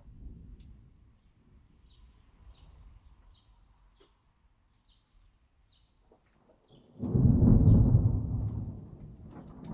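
Thunder: a faint rumble dies away, then about two-thirds of the way in a loud clap of thunder breaks and rolls off over a couple of seconds. In the quiet stretch before it, a high chirp repeats steadily, a little more than once a second.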